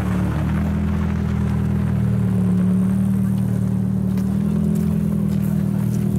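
Ferrari F40's twin-turbocharged 2.9-litre V8 running steadily at low revs, its pitch settling in the first moment and then holding level.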